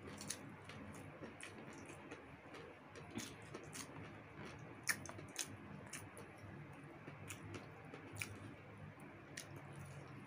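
People chewing roast chicken with their mouths close to the microphone: soft, irregular wet clicks and lip smacks, with small sounds of fingers pulling at the meat.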